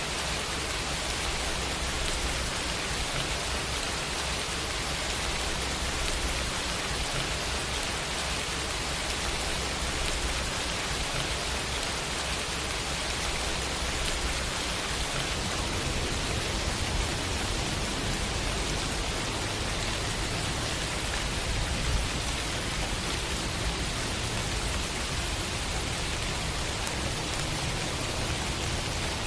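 Steady rainfall, an even hiss with a low rumble underneath.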